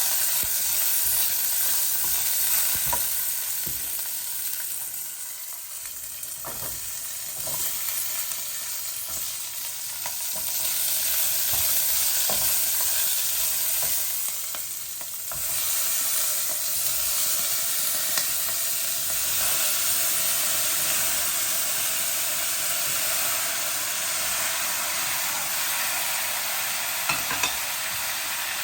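Food sizzling and frying in a hot pan while it is stirred, with occasional clicks and scrapes of the utensil against the pan. The sizzle eases briefly twice.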